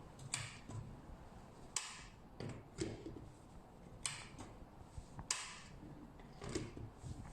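Irregular light clicks and knocks, with four short hissing scrapes between them: handling noises.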